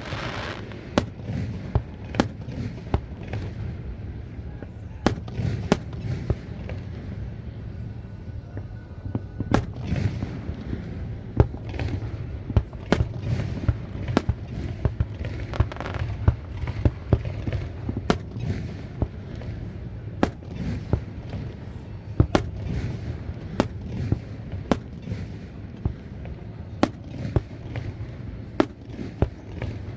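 Fireworks display: sharp bangs about once a second, irregularly spaced, over a continuous low rumble of shells bursting.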